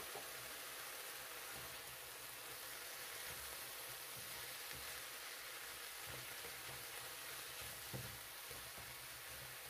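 Ground turkey with onions and bell peppers sizzling quietly in a nonstick frying pan as a silicone spatula stirs and breaks up the meat, with a soft knock about eight seconds in.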